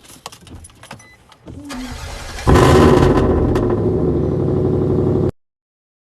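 Light clicking and rattling, then a truck engine cranks briefly and fires about two and a half seconds in. It runs loudly for nearly three seconds before the sound cuts off abruptly.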